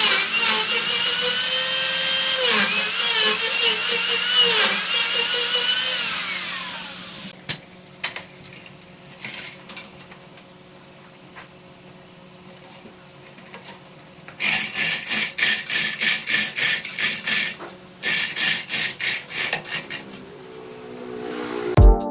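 Wood being cut on a lathe: a loud whine whose pitch wavers and glides over a bright hiss, dying away about seven seconds in. After a quieter stretch with scattered knocks, fast rasping strokes on wood, about four a second, come in two runs with a short break between.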